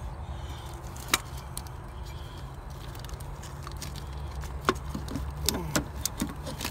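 Scattered metal clicks and knocks of hand tools and parts being handled in a car's engine bay: one about a second in, a sharper knock near the two-thirds mark, then a quick cluster near the end, over a steady low rumble.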